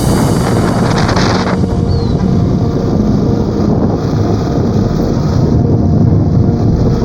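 Strong wind buffeting the microphone over a steady low rumble.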